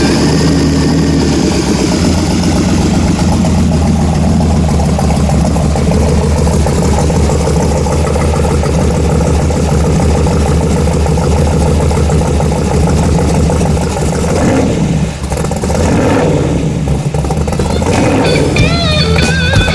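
383 cubic-inch stroker V8 in a hot-rodded 1937 Ford pickup, running loudly with a dense, rapid pulsing rumble. Its pitch and level shift around 15 seconds in, and rock guitar music comes back in near the end.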